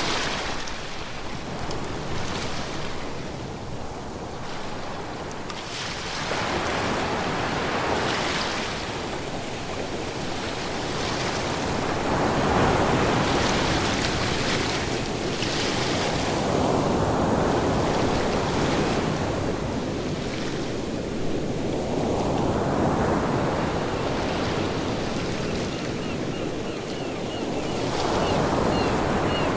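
Ocean surf: waves washing in and breaking, the rush swelling and falling back every few seconds.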